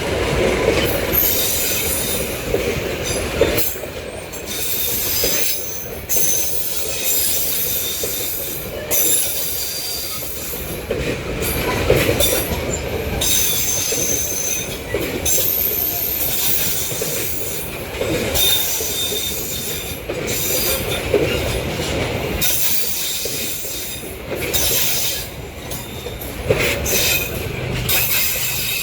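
Parcel train's wagons rolling slowly through the station. Their wheels squeal high-pitched on and off, and there is an irregular clatter of wheels over rail joints.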